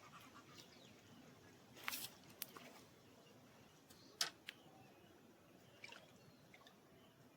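Near silence broken by a few faint, sharp clicks and taps, the loudest about four seconds in.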